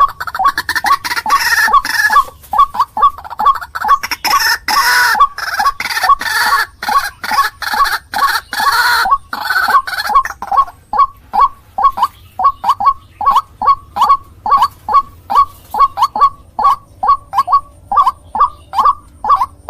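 White-breasted waterhen (ruak-ruak) calling: a fast, even run of short repeated notes, about two or three a second. A harsher, louder chorus of calls lies over them for the first half and drops away about halfway through.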